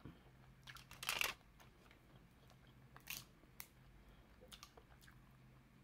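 Close-up eating sounds of someone chewing seafood: a short crunchy chew about a second in and another about three seconds in, with a few faint clicks between.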